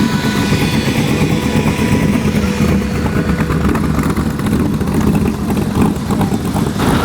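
An engine running with a steady, rough low rumble, as from a classic car or motorcycle close by.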